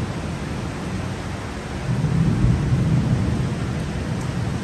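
Heavy driving rain falling steadily, with a low rumble of thunder swelling about two seconds in and fading again.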